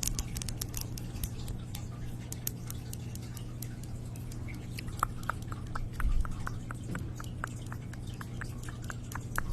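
Small sharp clicks and taps of fingers and nails working at a package that won't open, scattered at first and then coming in a more regular run in the second half, with a brief low thump about six seconds in and a steady low hum underneath.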